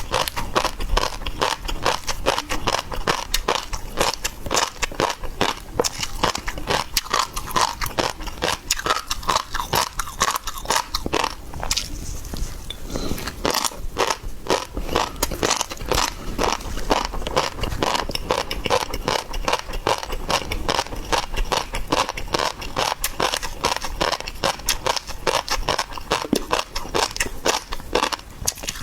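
A person chewing and crunching seafood: dense, irregular crackly clicks and wet mouth sounds, with a short lull about twelve seconds in.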